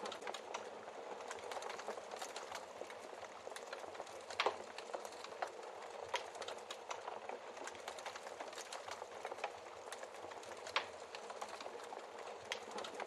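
Wood fire crackling with a steady hiss and many small pops, and two louder pops, one about a third of the way in and one near the end.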